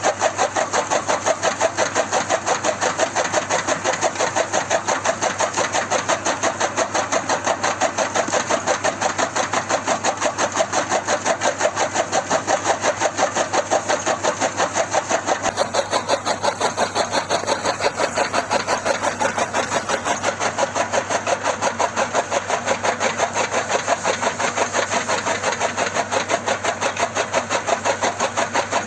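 Small motor-driven homemade mini chaff cutter running steadily, with a fast, even, rhythmic clatter of about four beats a second.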